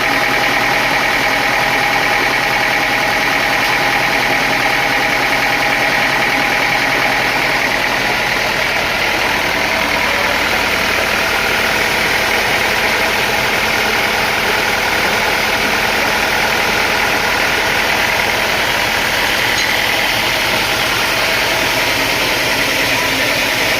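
Sawmill machinery running steadily: a continuous engine-like drone with several steady whining tones above it.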